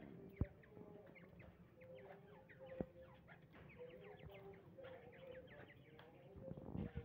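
Many caged birds chirping in quick short notes, with short, steady lower calls in between. Two sharp knocks stand out, one shortly after the start and one near the middle.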